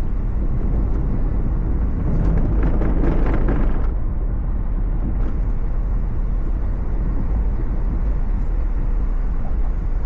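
Car driving on the road, heard from inside the cabin: a steady low rumble of engine and tyre noise that swells for a couple of seconds about two seconds in.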